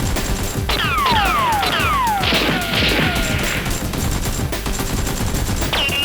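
Dubbed gunfire sound effects over background music, with several sharp falling whistles in the first two seconds and a short burst of noise after them.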